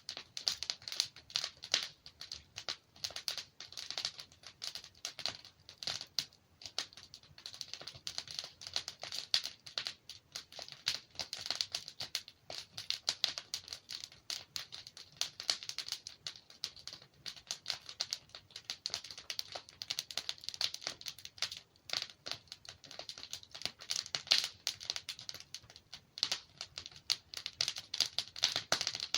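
Wood fire burning in a fireplace, logs crackling and popping in a dense, irregular stream of sharp clicks.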